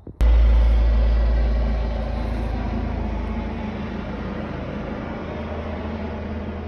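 A car running with a steady low rumble and engine hum. It starts abruptly just after the start and eases a little over the first two seconds.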